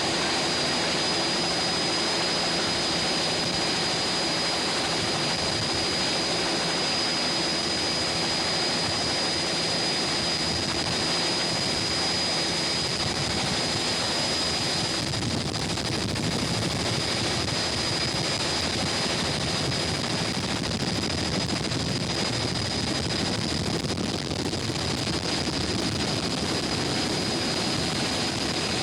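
Steady drone of a vehicle's engine and road noise, heard as it drives along, with a constant thin high whine above it.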